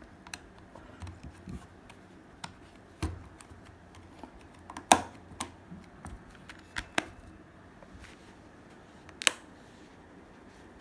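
Scattered small clicks and taps from handling an iPhone XR and its small parts as it is closed up after a screen and housing replacement. They come irregularly, with the sharpest clicks about five seconds in and again about nine seconds in.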